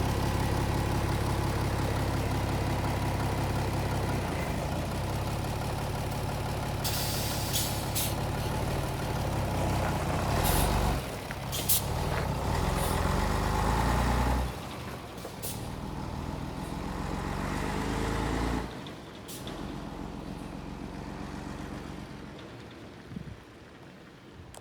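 Scania P112 hook-lift truck's 11-litre straight-six diesel engine running steadily, with several short, sharp air hisses from the air brake system. In the second half the engine sound drops away in two steps and then fades.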